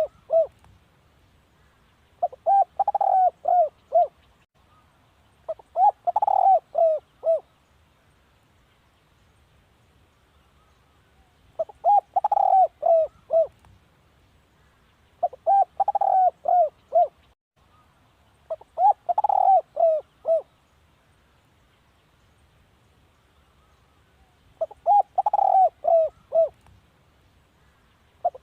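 Spotted dove cooing in repeated phrases of several quick coos, each about two seconds long, coming every three to six seconds. It is a decoy call of the kind used to draw in wild doves.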